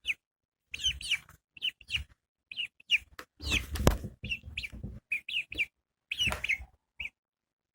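Repeated short, high chirps, each sliding down in pitch, from a bird, with a few knocks and rustles in the middle.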